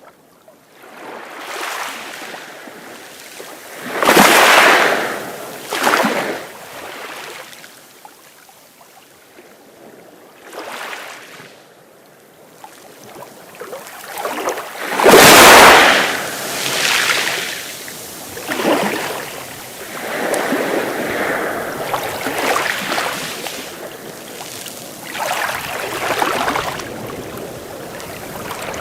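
Sea waves breaking and washing in, a rushing hiss that swells and fades in repeated surges, several seconds apart. The biggest surge comes about fifteen seconds in.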